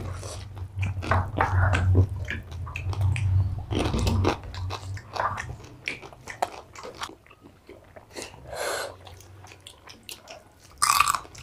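Close-miked chewing and crunching as people eat rice and curry by hand, irregular bites and crackles throughout, including the crunch of small freshwater crab legs being chewed.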